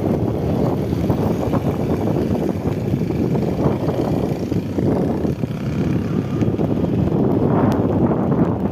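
Wind buffeting the microphone: a loud, uneven low rushing noise that rises and falls in gusts.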